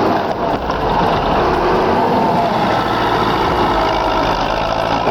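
Tractor engines running hard and steadily while pulling on a rooted tree stump.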